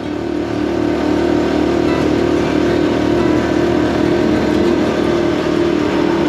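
Honda CT125 Hunter Cub's air-cooled single-cylinder engine running steadily while the bike is ridden, with a dense steady noise of wind and road under it. It grows louder over the first second, then holds.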